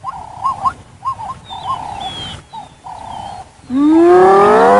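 Spotted hyena calling: a few short yelps, then a loud whoop that rises slowly for about a second and ends in a steep upward sweep. Faint bird chirps sound behind it.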